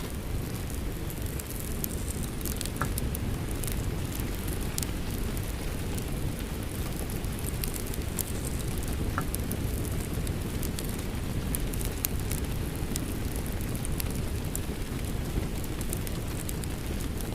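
Rain falling steadily, blended with a wood fire crackling, scattered sharp crackles and a couple of small pops over the rain.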